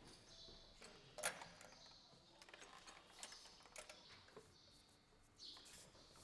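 Faint scattered mechanical clicks and light knocks, with one sharper click about a second in, against near silence.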